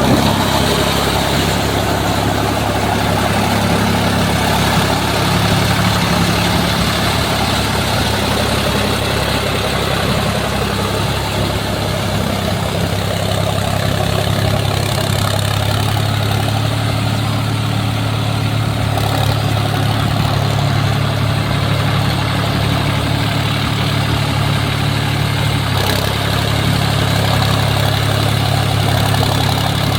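Sonalika Tiger DI 50 tractor's diesel engine running at a steady, even pace, with a low drone.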